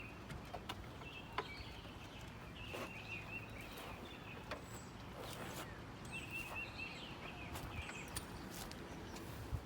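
Faint outdoor ambience: a bird chirping in short warbling phrases every few seconds, with a few scattered clicks.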